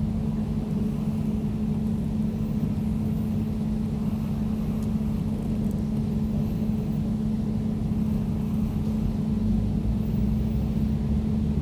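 Air conditioner running steadily: a low, even hum with a constant tone over a rumble of fan and airflow noise.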